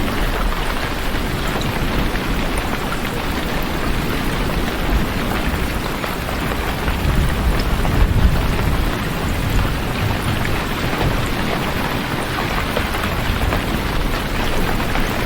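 Steady rain falling, with a low rumble of thunder swelling about halfway through.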